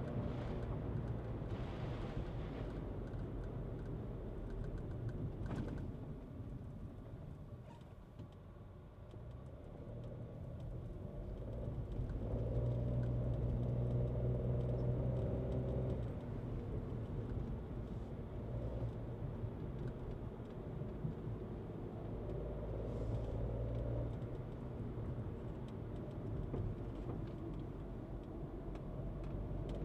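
Skoda Kushaq SUV driving with engine and road noise: the engine eases off and quietens a few seconds in, then pulls harder and is loudest for a few seconds in the middle before settling back to a steady cruise.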